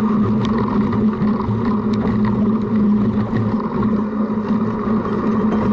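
Cyclocross bike being ridden off-road, heard through a camera mounted on its front: steady wind and rolling noise with a low hum, and a few sharp clicks and rattles.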